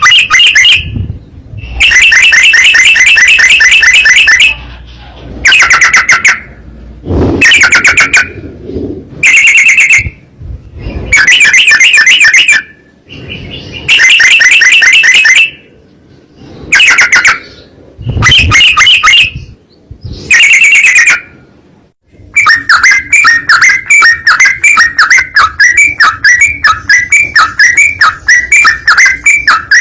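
Trucukan (yellow-vented bulbul) song, very loud and close. It comes as a series of bursts of quick, rapid-fire chirping notes with short pauses between, then changes about two-thirds of the way in to one long unbroken run of quick notes, the drawn-out rapid phrasing hobbyists call ropel.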